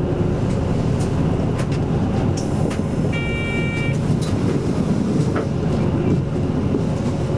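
Cabin noise of an Isuzu Erga Mio city bus with its engine running, a steady low rumble. About three seconds in, a short electronic tone sounds for under a second.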